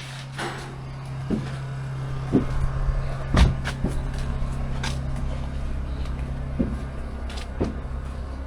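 A motor starts up and runs with a steady low hum, with several sharp clunks and knocks over it, the loudest about three and a half seconds in.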